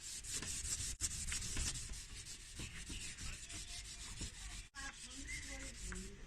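Rubber refrigerator door gasket being scrubbed back and forth with dish soap: a steady gritty rubbing that breaks off twice for a moment.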